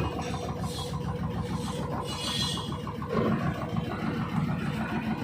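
Washing machine running its spin cycle: a steady mechanical hum with a fast, even rattle.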